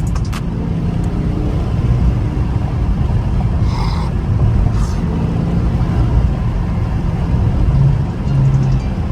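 Dodge Scat Pack's 6.4-litre HEMI V8 on its stock exhaust running steadily while the car is driven, a low, even rumble.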